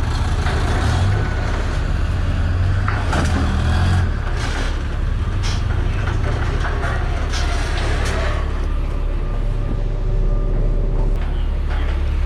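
Box truck idling with a steady low drone, with several sharp bangs and rattles between about three and eight seconds in as freight is loaded aboard.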